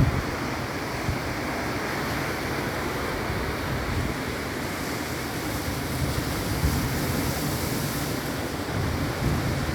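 Big ocean waves breaking, with a steady wash of surf, and wind buffeting the microphone in low gusts.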